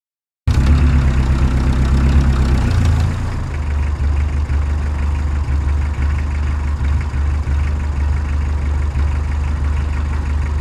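A heavy truck engine idling. It starts abruptly and settles to a lower, steady rumble about three seconds in.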